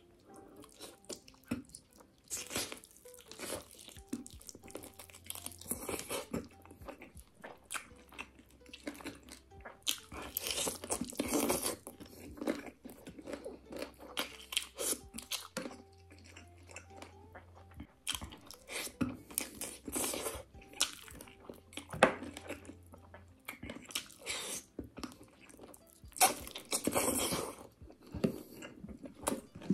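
Close-miked chewing and crunching of curried chicken feet eaten by hand, with several louder bursts of crunching on the cartilage and bone between quieter wet chewing.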